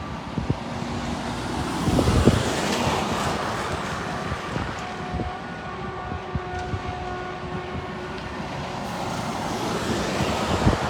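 Heavy lorries driving past, engine and tyre noise swelling about two seconds in and again near the end, with wind buffeting the microphone.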